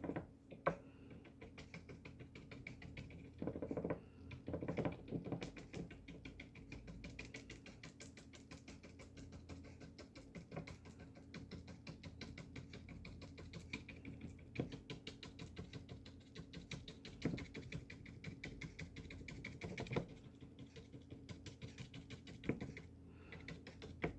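Stiff bristle brush dabbing gouache onto paper in quick repeated taps, a faint rapid patter with a few louder knocks.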